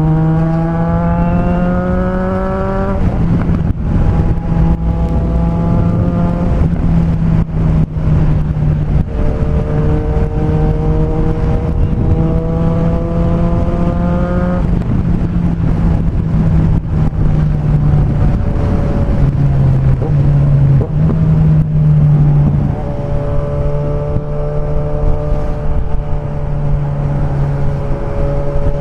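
Suzuki Bandit 1250's inline-four engine running through straight-piped exhaust with no muffler. Its pitch climbs slowly and drops back sharply twice, about three seconds in and near fifteen seconds, then holds fairly steady.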